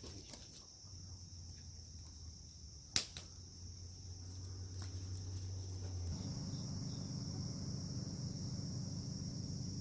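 Insects chirring steadily at a high pitch, with a single sharp click about three seconds in. About six seconds in, a low rumble grows louder underneath.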